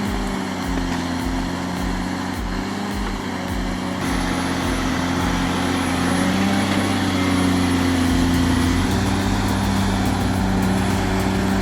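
A bulldozer's diesel engine running steadily, getting a little louder about four seconds in and rising slightly in pitch a couple of seconds later.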